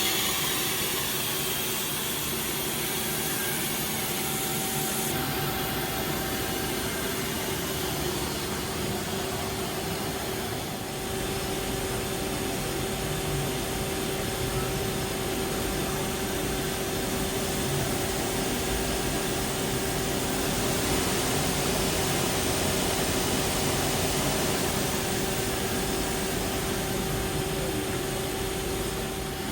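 Doosan Puma 2100Y CNC lathe running under power: a steady machine hum with a constant whine over a broad hiss. The highest part of the hiss thins out about five seconds in.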